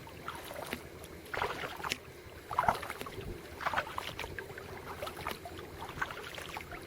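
Kayak paddle blades dipping and pulling through lake water, a splashy stroke about once a second.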